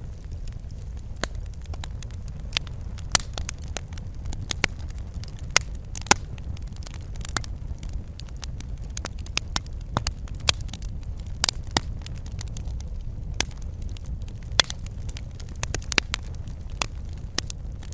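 Wood fire crackling and popping in a fireplace: irregular sharp snaps over a steady low rumble of burning.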